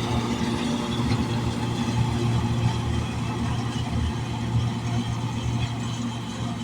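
Tractor diesel engine running steadily, with a constant low hum.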